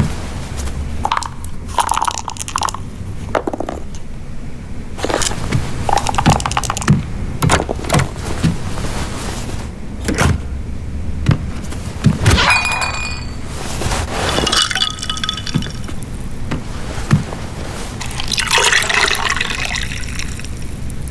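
Household ambience: scattered knocks and glassy clinks, some ringing briefly, with liquid pouring and splashing over a steady low rumble.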